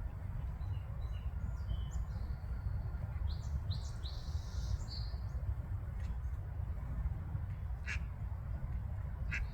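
A mother duck quacking with short, sharp calls twice near the end, and a run of high chirping calls in the middle, over a steady low rumble.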